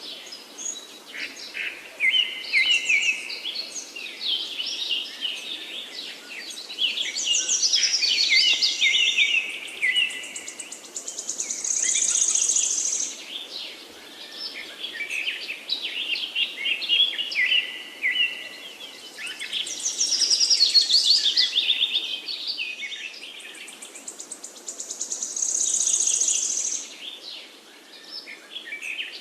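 Several songbirds singing and chirping in busy overlapping phrases, rising and falling in waves, with a high buzzy trill twice.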